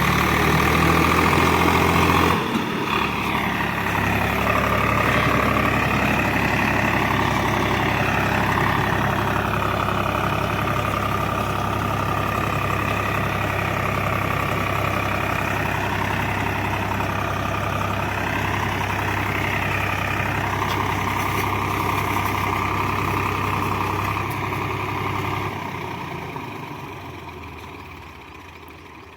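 Swaraj 744 FE tractor's three-cylinder diesel engine running steadily under load, with a higher whine wavering up and down in pitch above it. The sound fades away over the last few seconds.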